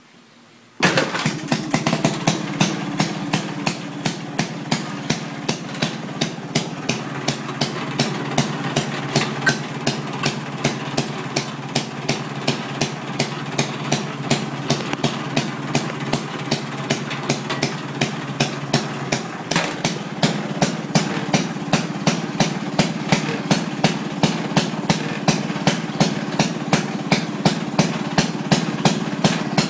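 Maytag wringer washer's small kick-start gasoline engine catching about a second in and then running, with a regular sharp popping beat from its firing strokes that grows more even after about 20 seconds.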